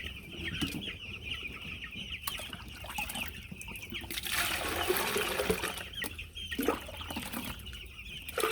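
A flock of young broiler chicks peeping continuously, many short high chirps overlapping. A hissing rush of noise lasts about two seconds near the middle.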